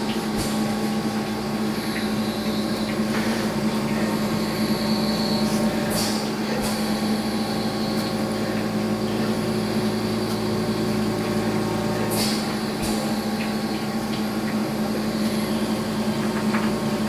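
A steady mechanical hum holding one low tone over an even hiss, with a couple of short faint knocks about 6 and 12 seconds in.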